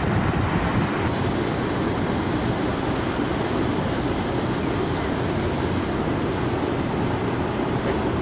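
Steady rumble and rushing of a passenger boat under way on the river: its engine running with water and wind noise, unchanging throughout.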